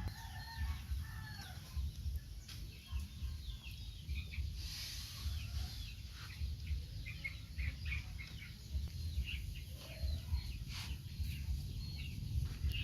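Chickens clucking and peeping in short, scattered calls, over a steady low rumble.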